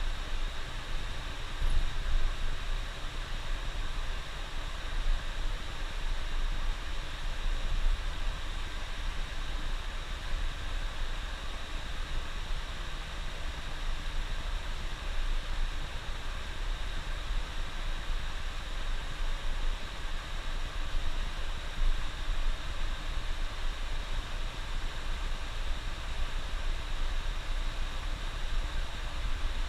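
Steady low rumble and road noise of a coach bus driving along the highway, heard from inside.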